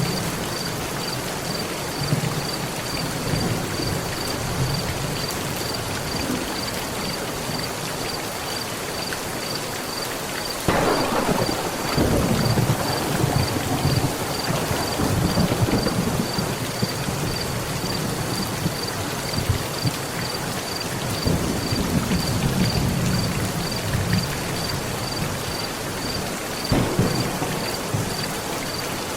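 Heavy rain falling steadily on a metal roof. About eleven seconds in, a sudden thunderclap breaks and rolls on in low rumbles for several seconds, and more thunder rumbles swell up twice later.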